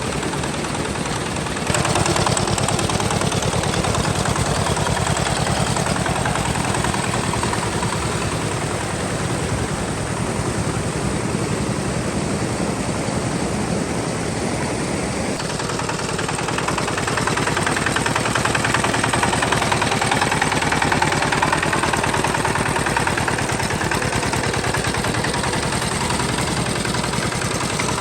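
Tractor engine running with a rapid, even chugging beat, steady throughout with shifts in its tone about two seconds in and again about halfway through.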